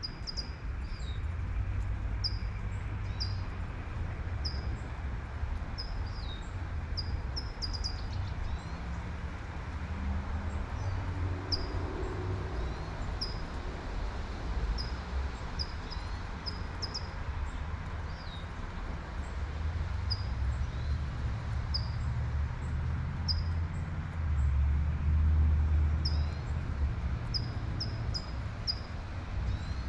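Light rain hissing steadily while a bird gives short, high chirps over and over, about one a second. Under it runs a low traffic rumble that swells to its loudest about three-quarters of the way through as a car passes.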